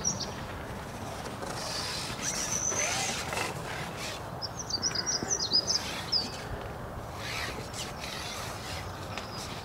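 A songbird singing two short phrases of quick, high twittering notes, about two seconds in and again about five seconds in, over a steady outdoor hiss with a few faint knocks.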